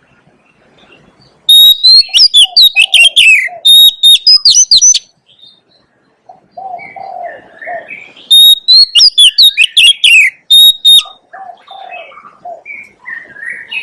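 Oriental magpie-robin singing: two loud bursts of rapid, sweeping whistled notes, the first about a second and a half in and the second near the middle, with softer, lower notes between and after them.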